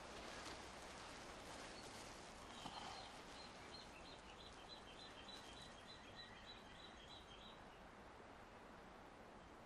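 Faint woodland ambience with a low hiss, and a bird calling in a quick, regular series of short high chirps, about three a second, starting a couple of seconds in and stopping a couple of seconds before the end.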